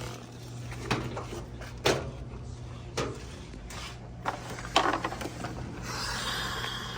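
A few sharp knocks and clicks about a second apart as tools and parts of a washing machine are handled, then a stretch of scraping or rustling near the end, over a steady low hum.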